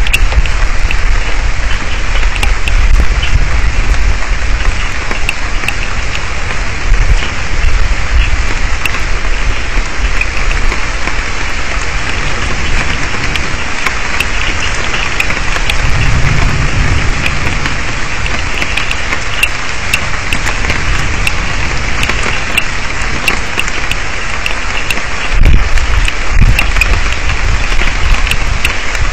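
Heavy rain in a thunderstorm: a steady dense hiss with many sharp ticks of drops striking close to the microphone. A low rumble swells at the start, about halfway through, and again near the end.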